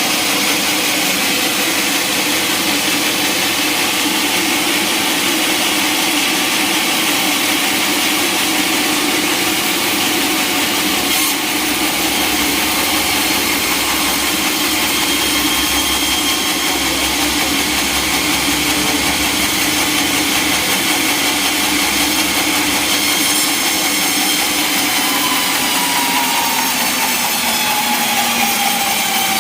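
Sawmill saw cutting lengthwise through a log, a loud steady cutting noise with a faint whine that slowly falls in pitch near the end.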